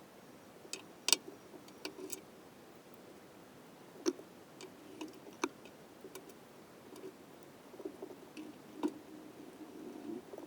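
Irregular sharp clicks and light knocks of tools and small metal engine parts being handled. The loudest come about a second in and again around four, five and a half and nine seconds.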